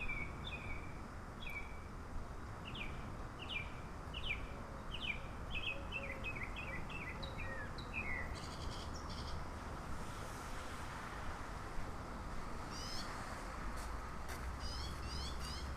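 Songbirds singing: a quick series of repeated down-slurred notes through the first half, then higher, faster chirping phrases near the end, over a steady low background rumble.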